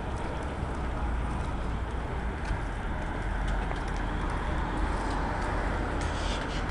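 City street traffic running steadily, a low rumble with a few faint clicks scattered through it.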